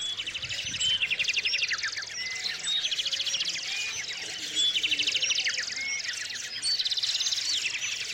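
Small songbirds singing: fast trilled phrases repeated about every two seconds, overlapped by short whistled slurred notes from other birds.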